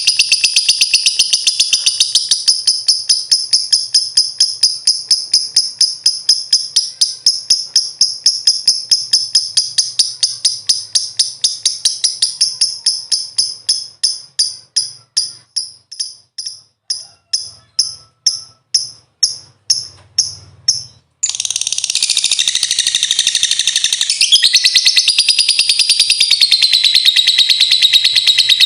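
Lovebird ngekek: a long string of rapid, high-pitched chirps that gradually slows and fades. About two-thirds of the way through it cuts abruptly to a dense, unbroken high chattering.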